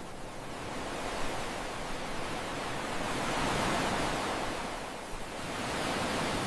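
Ocean waves washing: a steady rushing noise that swells about three to four seconds in, eases around five seconds, and builds again.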